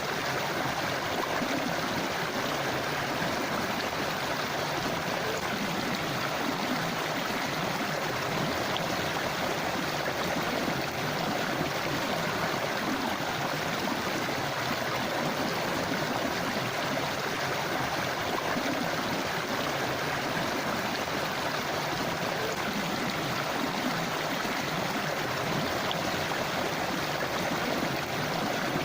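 A river or stream flowing, a steady rush and gurgle of water.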